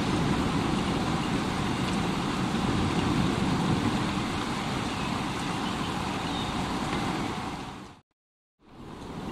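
Steady heavy rain with a low rumble underneath. About eight seconds in it fades out to dead silence for roughly half a second, then fades back in.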